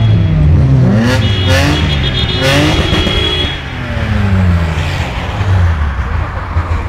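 Car engine revving up sharply several times in quick succession, then a falling engine note as it eases off, over steady engine and road noise in traffic.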